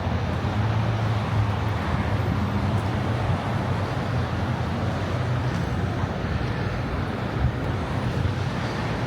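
Steady road traffic noise with a low engine hum under it that fades and returns.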